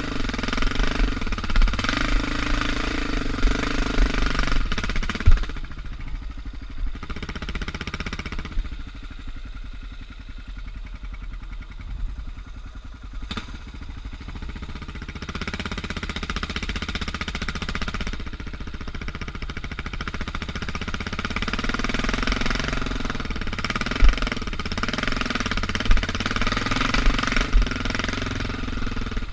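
Suzuki DR650's single-cylinder four-stroke engine running while the bike is ridden along a dirt single track. The engine gets quieter for several seconds in the middle and then picks up again, with a few sharp knocks along the way.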